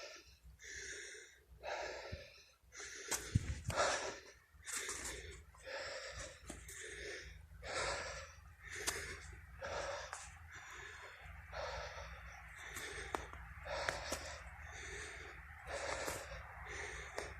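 A runner's heavy, rhythmic breathing, a hard breath in or out roughly every second, from exertion while running.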